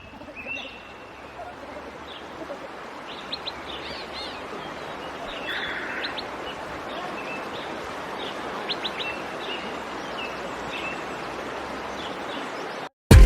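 Several birds chirping and calling in short, high notes, scattered over a steady outdoor background hiss.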